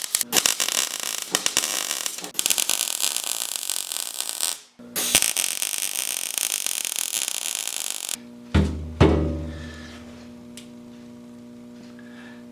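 Electric arc welding crackling steadily as a steel patch is welded onto a rusted snow plow, in two long runs with a short break between them. About two-thirds of the way in, two sharp hits are followed by steady held tones, which sound like background music starting.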